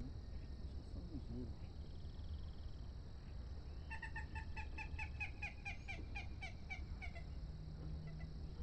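A bird calling a quick run of about a dozen repeated notes, some four a second, dropping slightly in pitch at the end, over steady low outdoor rumble and a faint high insect hum.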